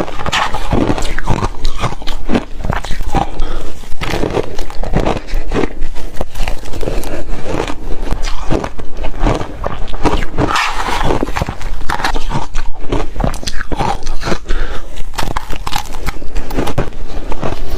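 Close-up crunching and chewing of reshaved refrigerator ice: a loud, irregular run of crisp crunches, several a second.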